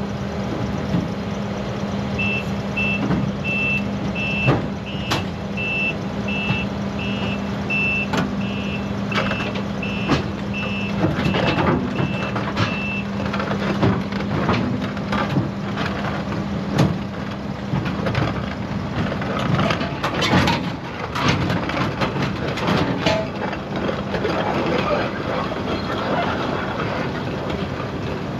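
Case CX220 excavator being tracked off a lowboy trailer. Its travel alarm beeps steadily, about three beeps every two seconds, from about two seconds in until about thirteen seconds in, over the diesel engine's hum. Sharp clanks and knocks from the steel tracks and trailer deck run throughout.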